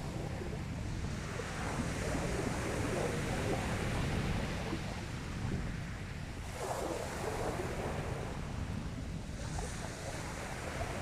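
Sea waves breaking and washing up the beach, swelling about a second and a half in and again more sharply about six and a half seconds in, with wind rumbling on the microphone.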